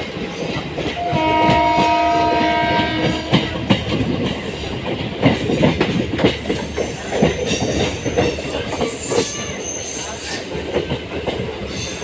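A train sounding its horn, a steady chord lasting about two seconds from about a second in, followed by the clatter and irregular knocks of the wheels running over the rails.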